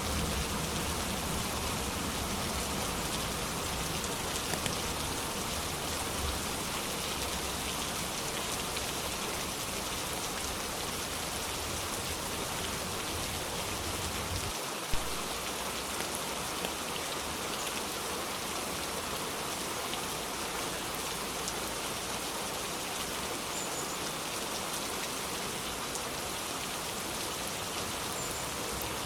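Steady rain falling, an even hiss of drops. About halfway through there is one sharp click, and after it the low rumble underneath drops away.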